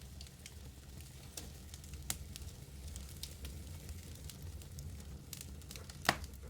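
Wood fire crackling in a fireplace: scattered sharp snaps and pops over a low steady rumble, with one louder pop near the end.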